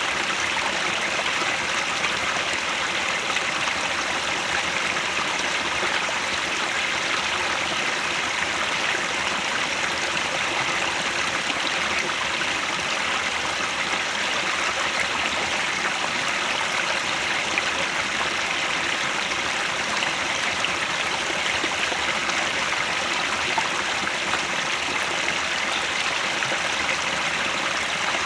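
Mountain headwater stream flowing over rocks, a steady rushing and babbling of water.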